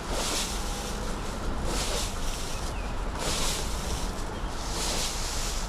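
Rhythmic rustling swishes, about one every second and a half, over a steady low rumble of wind on the microphone.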